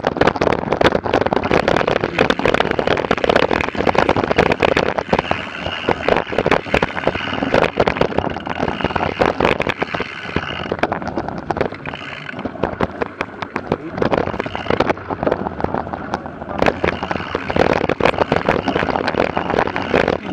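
A mass of mountain bikes riding off from a race start: a dense rush of tyres on sandy gravel, peppered with many short clicks.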